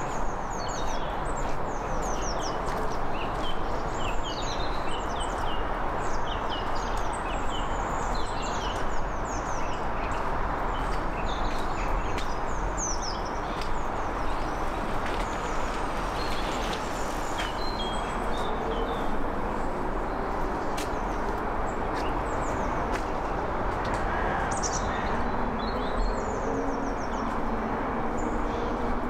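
Small birds chirping and singing in short, repeated calls over a steady rush of background noise. The chirping is busiest in the first half.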